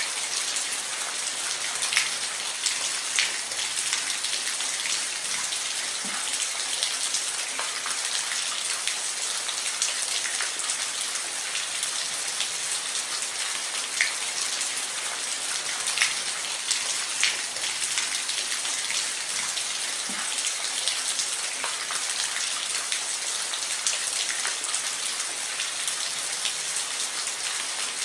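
Steady rain falling on a roof, a constant hiss with occasional louder individual drops striking the surface.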